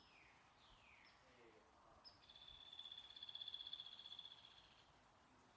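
Faint birdsong: a couple of short falling whistles, then a high, even trill of rapid pulses that swells and fades over about three seconds.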